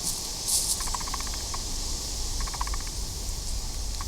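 Outdoor ambience: a steady low wind rumble on the microphone and a high hiss, with a short rustle about half a second in. A small animal gives short rapid ticking trills, each about half a second long, repeated every second or so.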